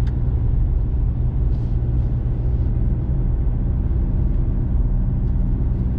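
Steady low rumble of a four-wheel-drive diesel pickup truck's engine and tyres, heard from inside the cab while driving.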